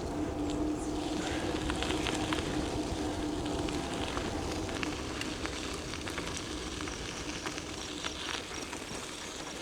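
E-bike riding over a rough gravel track: the tyres crackle and tick over loose stones, under a steady motor whine that fades about halfway through.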